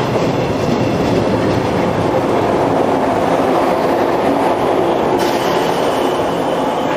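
JR 103 series electric train running along the track at a station: a steady, loud rumble of wheels and running gear with faint whining tones. A thin high squeal joins about five seconds in.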